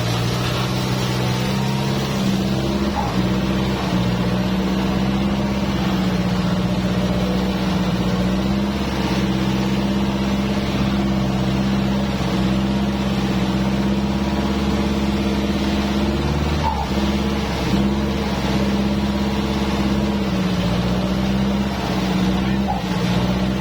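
Kubota tractor's diesel engine running steadily under work, its speed sagging briefly about two-thirds of the way through and again near the end.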